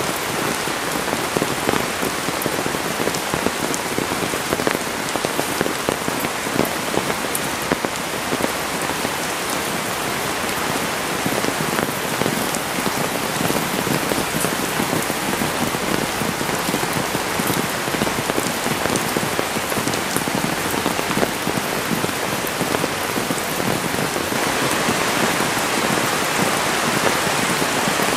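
Heavy rain falling, a dense hiss of countless drops striking, growing a little louder near the end.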